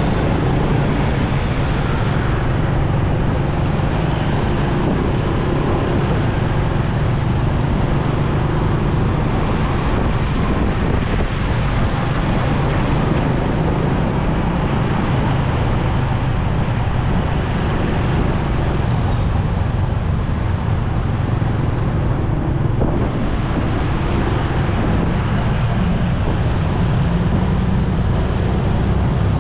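Motorcycle engine running steadily while riding, with wind rushing over the microphone and the sound of road traffic around it.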